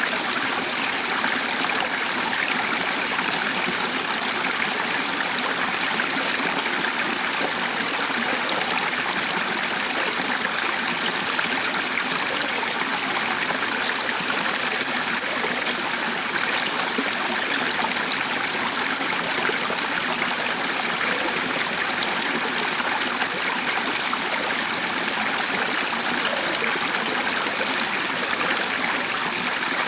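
A stream flowing steadily: an even, unbroken water noise with no single call or splash standing out.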